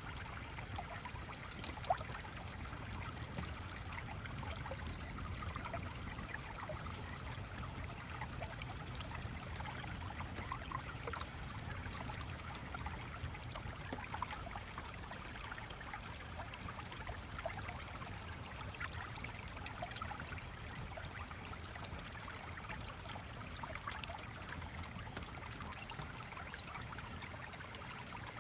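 Stream water flowing and trickling steadily, with faint scattered ticks and one sharper click about two seconds in.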